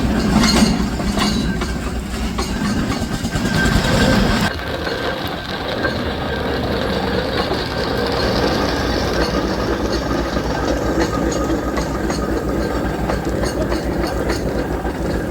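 Steam traction engine on the move, running with a regular rhythmic beat. A higher hissing layer drops away sharply about four and a half seconds in, and the rest of the running sound carries on steadily.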